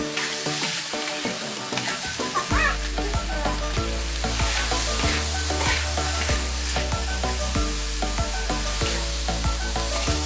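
Food frying and sizzling in a pan, under background music with a steady bass line.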